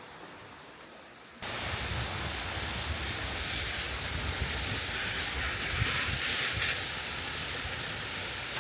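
Steady outdoor rushing noise with an uneven low rumble, which cuts in abruptly and louder about a second and a half in after a quieter hiss.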